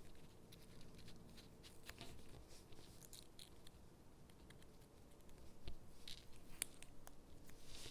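Faint sticker and paper handling: soft peels, crinkles and light taps as stickers are lifted from their backing and pressed onto gingerbread cutouts. A couple of sharper clicks come about two-thirds of the way through.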